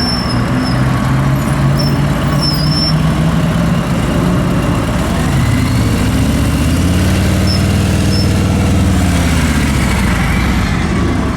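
Harley-Davidson motorcycle engine running at low speed. Its pitch drops about four seconds in and rises again a few seconds later as the throttle is eased off and opened.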